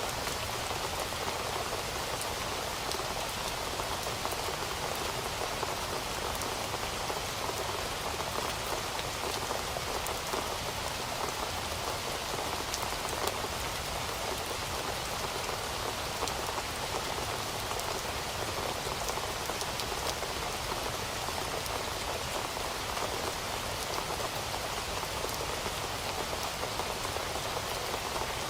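Heavy rain falling steadily, a dense even hiss of drops hitting a surface with fine individual drop patter.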